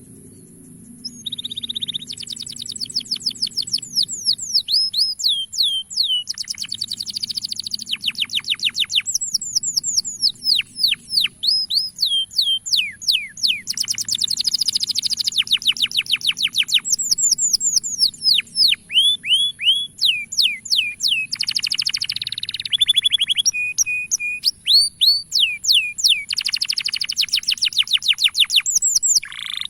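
Male domestic canary singing: phrase after phrase of rapid trills, each a fast run of repeated down-sweeping notes, with a few short held whistles between them.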